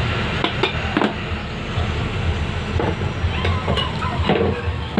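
Scattered small clicks and knocks of a rechargeable fan's plastic and metal parts being handled during disassembly, over a steady low rumble of background traffic.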